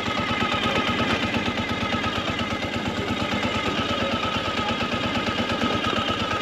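Motorcycle engine running steadily under way, its firing heard as a rapid, even pulsing.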